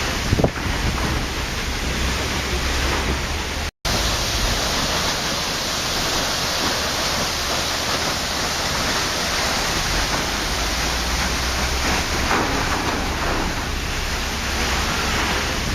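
Waterfall: a steady, dense rush of falling water with no let-up. The sound cuts out for an instant about four seconds in, then carries on unchanged.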